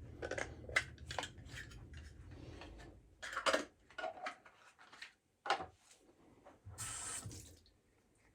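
Water from a bathroom sink tap running, with short knocks and clinks of shaving things being handled at the sink, and a brief rush of water about seven seconds in.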